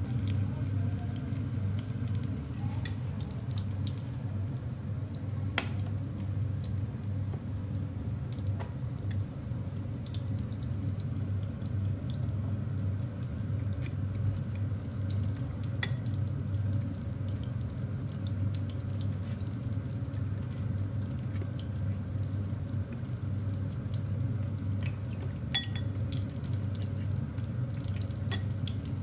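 Battered apple slices frying in oil in a pan, a steady sizzle, with a few light clinks of a fork against a ceramic bowl of batter.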